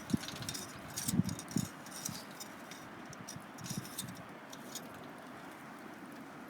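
A few light knocks and clinks, clustered in the first two seconds and again around four seconds in, over a faint steady hiss.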